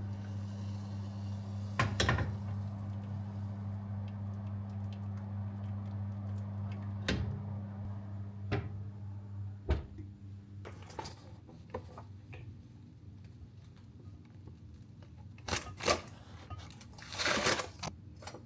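Scattered clicks and knocks of kitchen things being handled over a steady low hum; the upper part of the hum stops about ten seconds in, and a brief rushing noise comes near the end.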